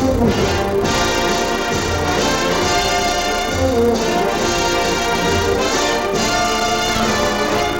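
Orchestral music with brass to the fore, playing a full, sustained passage.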